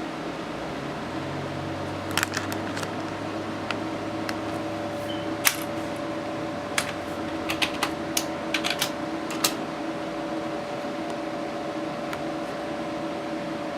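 Cooling fans of two MSI GTX 970 graphics cards running steadily, a hum carrying a steady tone whose pitch shifts partway through. A scattering of sharp clicks comes through the middle.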